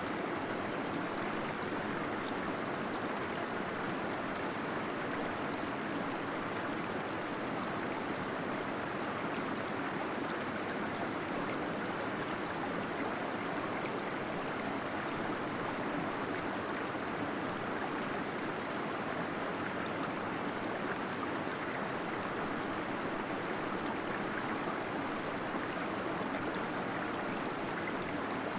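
Small waterfall splashing and gurgling steadily inside a cave.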